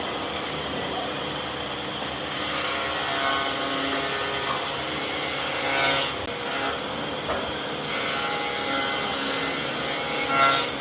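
A power tool running steadily, with brief louder swells about six seconds in and again near the end.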